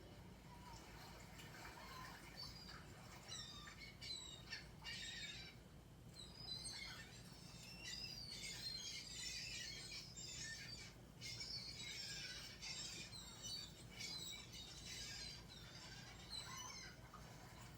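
A flock of small birds chirping and twittering, many short high calls overlapping, busiest in the middle stretch, heard faintly over a low steady hum.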